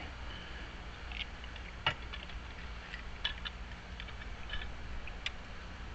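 Scattered small clicks and taps from lock parts and tools being handled while a lock cylinder is taken apart for rekeying, the sharpest click about two seconds in, over a low steady hum.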